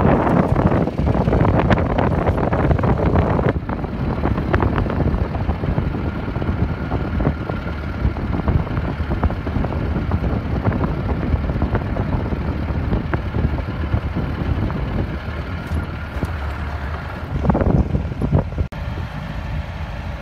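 Mahindra Roxor side-by-side driving along a gravel trail: a steady engine drone under a dense crackle of tyre and ride noise. It is louder for the first few seconds and again briefly near the end.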